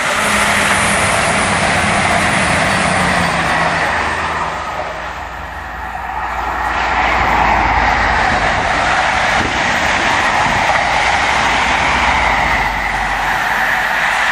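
Two diesel passenger trains pass at speed. First a Class 222 Meridian multiple unit, then an InterCity 125 (HST) high-speed train, their engines and wheels on the rails making a loud rushing noise that dips briefly about five seconds in before swelling again.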